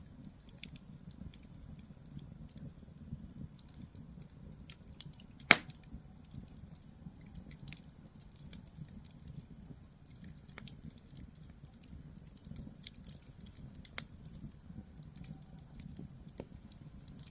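Burning firewood crackling with scattered small pops over a low steady background, and one loud sharp pop about five and a half seconds in.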